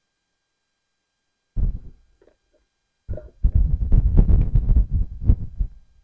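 Muffled low thumps and rumbling with rustle and clicks, starting about a second and a half in with one short thump, then heavier and continuous for the last three seconds.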